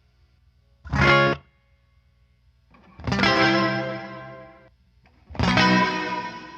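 Electric guitar chords played through the Big Ear Pedals Albie multi-effect pedal, cycling through its presets: a short stab about a second in, then two longer chords that ring and fade, with silent gaps between.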